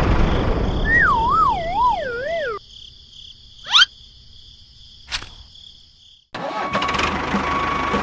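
Dubbed tractor engine sound effect running, overlaid by a whistle that wobbles as it falls in pitch. The engine then drops away, leaving a quick rising swoop and a sharp click. The engine sound comes back with an even pulse about three-quarters of the way through.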